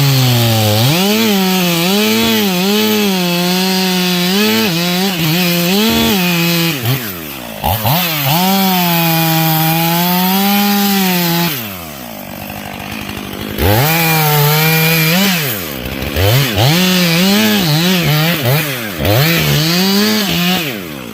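Chainsaw cutting through wood: the engine's pitch repeatedly sags under load and recovers as the bar bites. About twelve seconds in it drops to idle for a second or so, then revs back up and cuts again.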